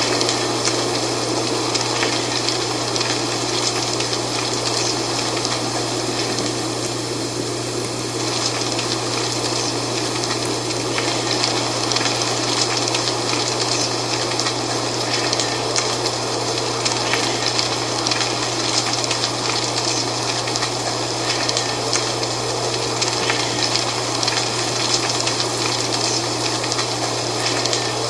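Dry fall leaves rustling steadily in the wind, a dense, crackly rustle that keeps going without pause, over a constant low hum.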